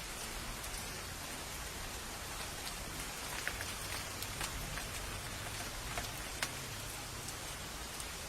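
Steady rain falling, an even hiss with scattered sharp drop hits; a few louder drops land near the middle and about six seconds in.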